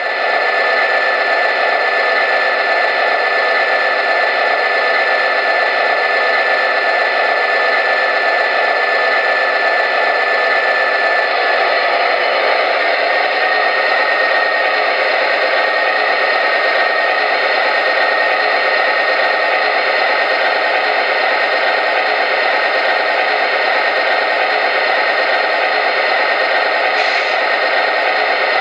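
MTH Premier O-gauge ES44AC model diesel locomotive running, its onboard sound system playing a steady diesel engine drone with track noise and no bass.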